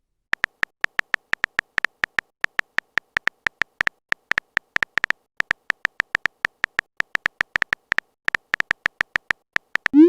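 Rapid run of short electronic beeps, all on one high pitch, about five a second with a few brief pauses: a text-typing sound effect as chat messages are written out. A short rising blip comes right at the end.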